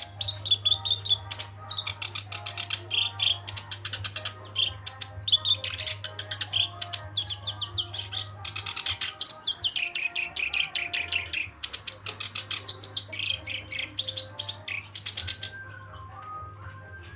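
Black-browed reed warbler singing: rapid, near-continuous chattering phrases of quickly repeated notes that stop shortly before the end. A steady low hum runs underneath.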